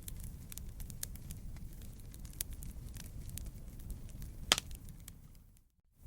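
Wood fire crackling, with scattered sharp pops over a low steady rumble, one pop louder than the rest about four and a half seconds in. The sound fades briefly to silence near the end and then comes back.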